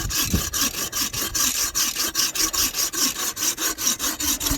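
Sven folding bow saw cutting through juniper wood, its blade rasping back and forth in quick, even strokes at about four a second.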